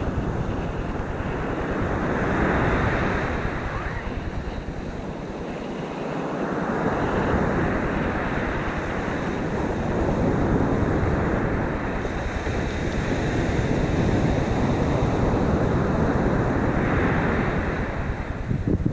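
Heavy surf from a stormy sea, waves breaking and washing in swells every few seconds, with wind buffeting the microphone.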